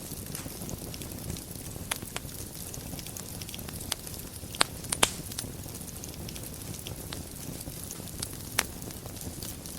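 Wood fire burning in a fireplace with a steady low rumble and hiss, broken by scattered crackles and sharp pops; the loudest pops come in a quick pair about halfway through.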